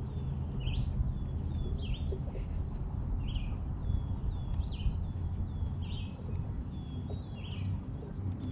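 Birds calling: a string of short high chirps, about two a second, over a steady low rumble.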